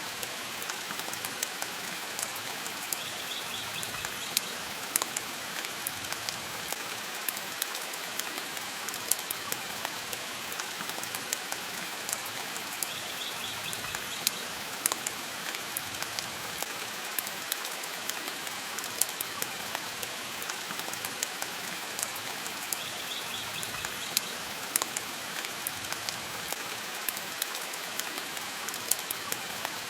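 Steady rain falling, an even hiss, mixed with a wood fire crackling in a fireplace: frequent short sharp pops and snaps over the rain.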